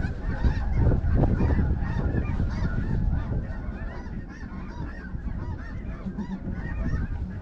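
A large flock of snow geese calling, many overlapping high yelping honks at once.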